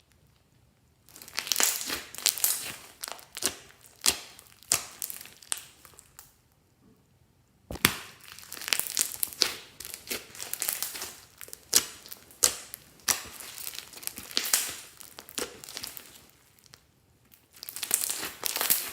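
Slime being squished and mixed by hand, crackling and clicking in bursts, with two short pauses.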